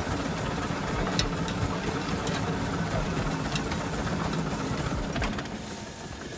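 Vintage engine running with a rapid, even chugging beat and a few sharp clicks, dropping slightly in loudness near the end.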